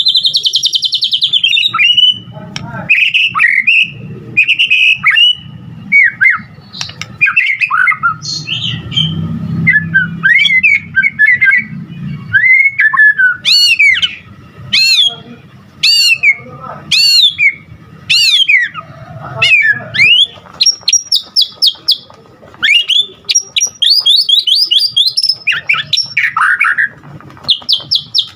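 White-rumped shama (murai batu) singing loudly and continuously, a varied song of whistled phrases, quick up-and-down sweeping notes and rapid trills, full of phrases mimicked from other birds.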